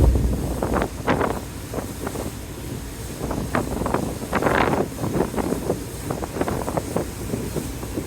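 Wind gusting against the microphone aboard a ferry in strong typhoon winds, buffeting in irregular blasts over a steady low rumble.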